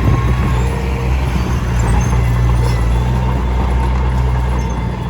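Diesel engine of a Komatsu D21P crawler bulldozer running steadily, with a continuous mechanical clatter over the engine's low hum.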